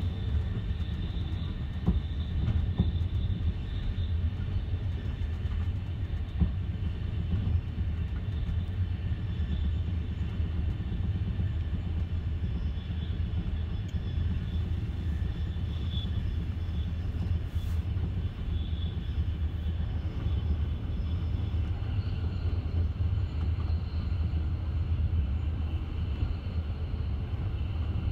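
Passenger train running at speed, heard from aboard: a steady low rumble of wheels on rails, with a couple of sharp knocks in the first several seconds.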